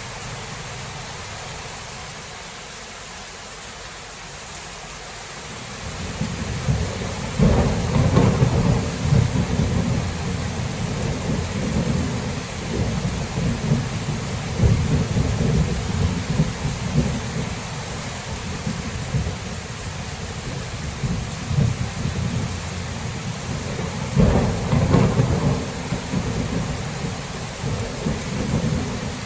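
Thunderstorm: steady rain hissing while thunder rumbles in, breaking into two loud claps, one about seven seconds in and another near the end, with long rolling rumbles between.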